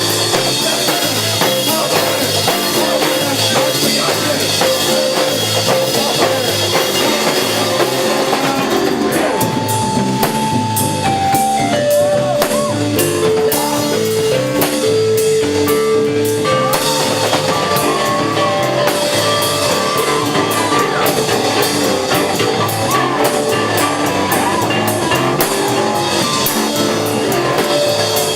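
Live rock band playing, with drum kit and electric guitar. For several seconds in the middle the cymbals thin out and a melody of held single notes comes forward, then the full band returns.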